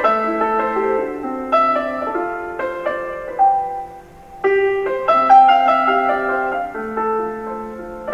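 Background music: a slow piano piece with struck notes and chords that ring and fade, and a brief lull about four seconds in before a new phrase begins.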